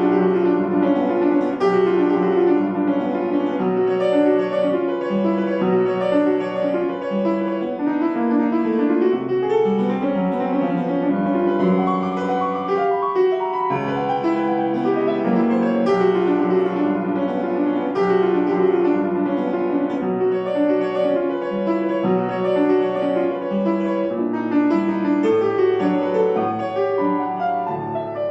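Solo piano music: a classical-style piece of chords and melody notes played without pause.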